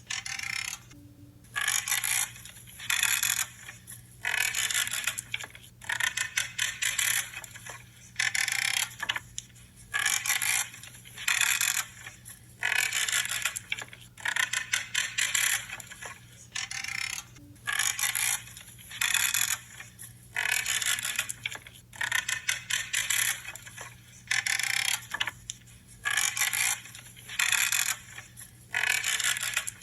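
Branches being trimmed, each cut giving a short creaking crackle, repeated about once a second.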